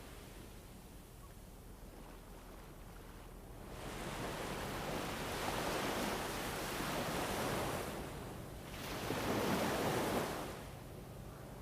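Ambient wind bed in surges: a steady hiss that swells into a long gust about four seconds in, and a stronger one near the end, each dying back down.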